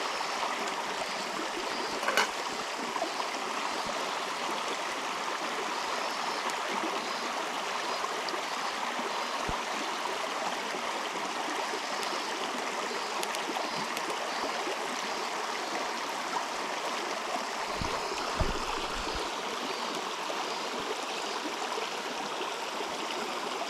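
River water flowing steadily, with a sharp click about two seconds in and a low thump near eighteen seconds.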